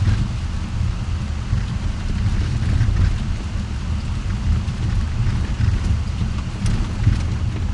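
Steady low rumble of a car driving, heard from inside the cabin, with a few scattered light ticks.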